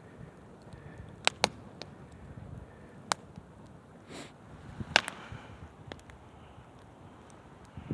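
Wood campfire crackling, with sharp pops: two close together about a second in, one around three seconds and a louder one around five seconds.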